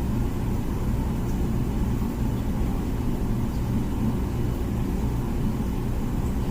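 Comfee dishwasher running its wash cycle: a steady low rumble from the wash pump.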